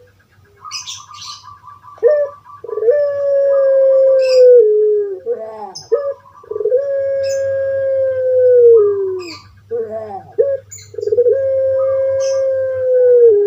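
Puter pelung, a domesticated ringneck dove (Streptopelia risoria), giving its long drawn-out coos: three loud held notes of two to three seconds each, every one dropping in pitch at its end, with short gliding notes between them.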